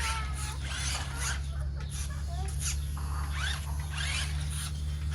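Mini RC cars driving, with repeated short bursts of small-motor and gear whine and scrabbling, some squeaky rising and falling, over a steady low hum.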